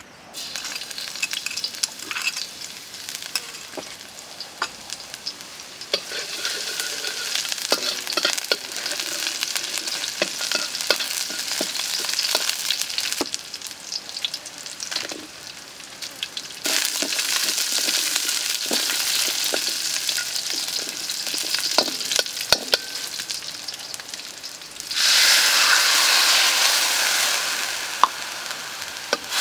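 Hot oil in a steel wok sizzling and spitting as chopped aromatics fry in it, with scattered sharp pops. Near the end the sizzle turns much louder when more ingredients (whole shallots, garlic cloves, dried chillies) go into the oil.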